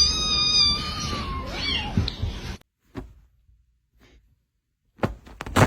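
A cat meows once: one long, high-pitched meow of about a second and a half that sags slightly in pitch. After a sudden cut to near silence, a few sharp knocks come near the end.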